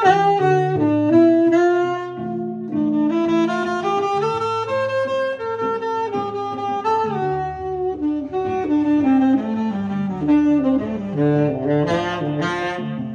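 Instrumental break in a live band's song: a lead melody instrument plays a line of held notes stepping up and down over bass accompaniment.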